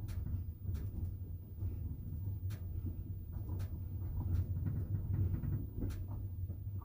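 Low steady rumble of a double-decker passenger train running, heard from inside the carriage, with a few sharp clicks scattered through it.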